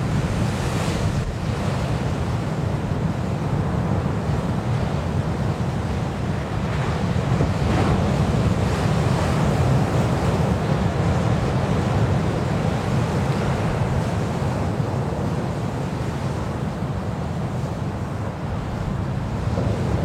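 Steady wind noise buffeting the microphone: a continuous low rumble under a rushing hiss.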